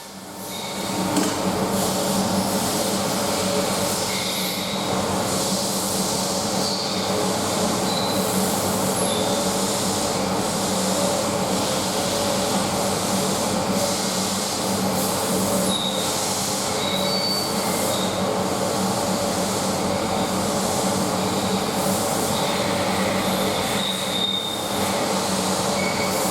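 SsangYong Korando C 2.0 XDi diesel engine running steadily on a test stand.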